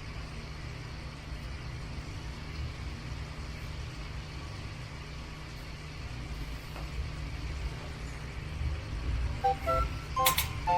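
Steady low hum with no other clear sound, then light plinking music notes start near the end.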